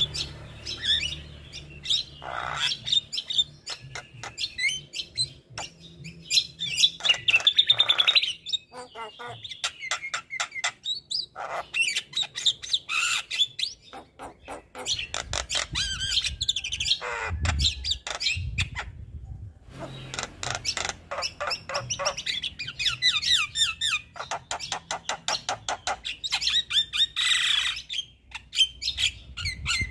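Male Javan myna singing energetically: rapid runs of harsh chattering notes mixed with whistled phrases, in bursts separated by short pauses.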